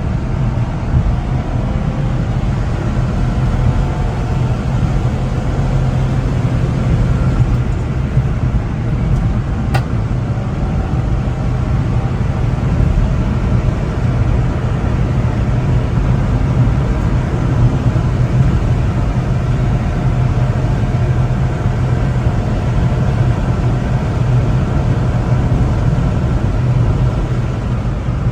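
1996 Honda Acty kei truck driving, its small three-cylinder engine and road noise running steadily with a low hum and shifting tones as speed changes. There is one sharp click about ten seconds in.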